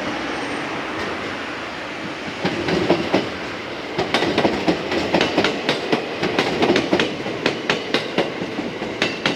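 Train passing on the rails: a steady rumble, then from about two and a half seconds in the clickety-clack of its wheels striking the rail joints, several knocks a second.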